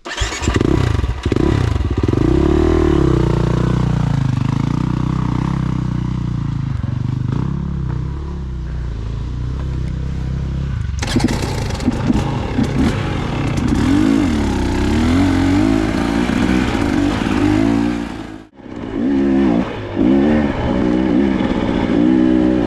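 Dirt bike engine running hard on a trail ride, its pitch rising and falling repeatedly as the throttle is worked on and off. The sound changes abruptly about halfway through and drops out briefly near the end before the engine picks up again.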